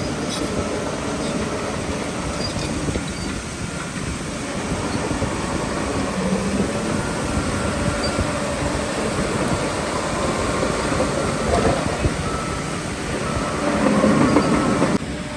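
Bulldozer at work: its diesel engine runs steadily under load, with metallic clanking and squealing from the steel tracks. It grows louder near the end, then drops off abruptly.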